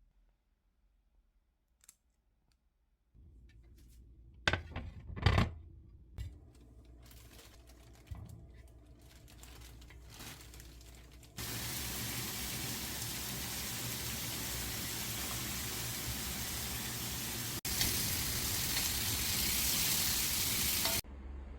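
Running water, like a tap, that starts abruptly about halfway through, grows louder near the end and is cut off suddenly. A few sharp knocks come earlier.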